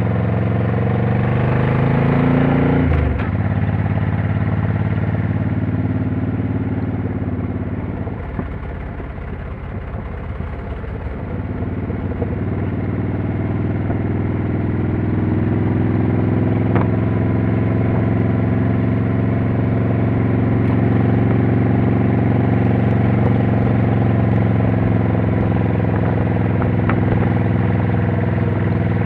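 Motorcycle engine under way: the revs climb for about three seconds, then fall sharply. The engine quietens for a few seconds near the middle, then pulls steadily again with the pitch slowly rising.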